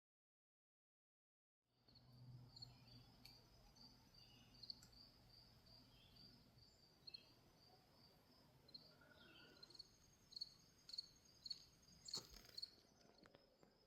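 Faint insects chirping in a steady series of short, high chirps, starting after a couple of seconds of silence, with a single faint click about twelve seconds in.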